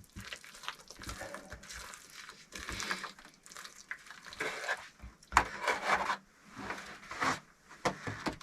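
Irregular scraping and rubbing of clay mortar and bricks being worked by hand for bricklaying, with a few sharp knocks.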